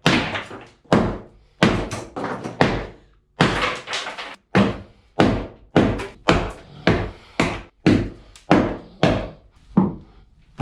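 A steady series of heavy thuds, about one to two a second, each fading away quickly. This is something being hammered or knocked loose while a boat's cabin interior is torn out.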